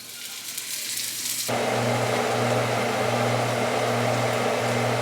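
A high hiss builds for about a second and a half, then an electric appliance with a fan switches on suddenly and runs steadily with a low hum.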